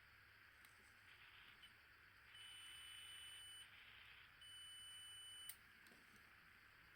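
A digital multimeter's continuity buzzer beeping twice, each a steady high beep lasting about a second, as the probes find a connection.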